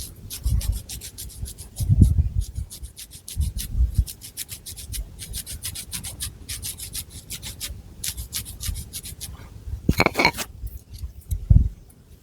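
Long fingernails scratching through thick long hair and across the scalp in a quick run of short, raspy strokes, with dull low bumps of the hands. A brief louder sound stands out about ten seconds in.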